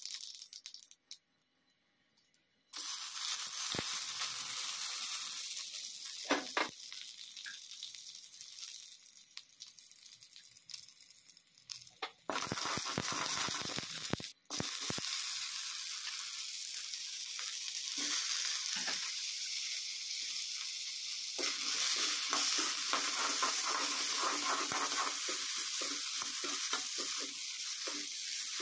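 Hot oil sizzling and crackling in a frying pan with sharp pops, as seeds and then cut potato pieces fry in it. The sizzle breaks off almost to silence for under two seconds about a second in, and grows louder and fuller about two-thirds of the way through.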